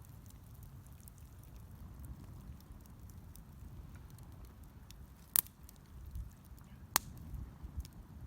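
Wood fire crackling with faint small ticks over a low rumble, and two sharp pops about a second and a half apart.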